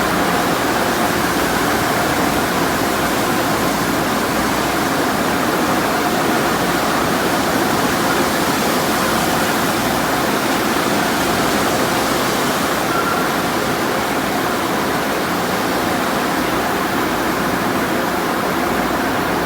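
Car wash water jets spraying steadily, a constant rushing hiss.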